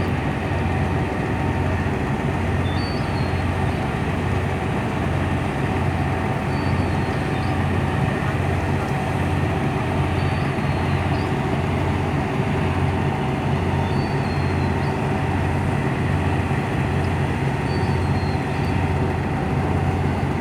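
Tugboat diesel engine running steadily under load as a low, regularly throbbing drone. A faint short high chirp repeats about every four seconds.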